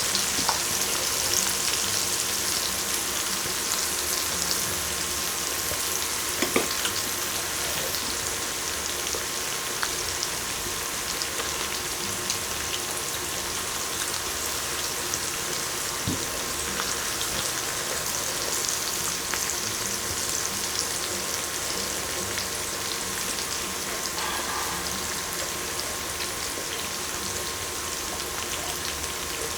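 Food sizzling steadily on an electric grill, with a few small pops.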